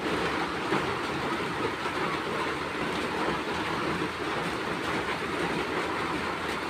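Moving train running steadily: a continuous rumble and rattle of the carriage with no pause or change.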